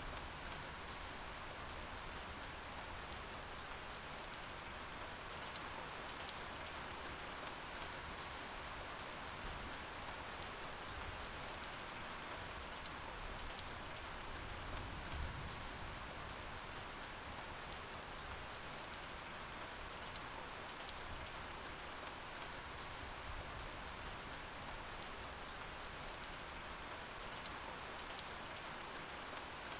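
Steady rain falling, an even hiss with fine ticks of individual drops, unchanging throughout.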